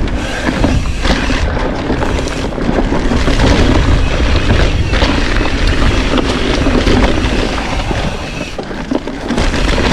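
Wind buffeting the microphone over the rumble of mountain bike tyres rolling on a dirt trail, with the bike rattling over bumps.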